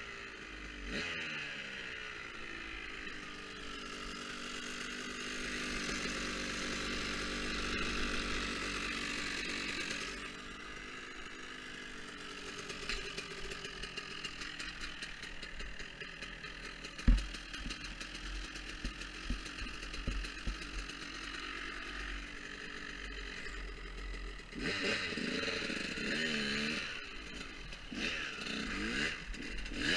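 Dirt bike engine running and revving up and down as the bike rides, with a single sharp knock a little past halfway.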